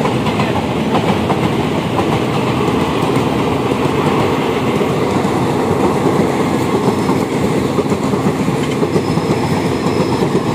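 Express train passenger coaches running past at close range: a loud, steady rumble with rapid clickety-clack of wheels over rail joints, heard from aboard a suburban train.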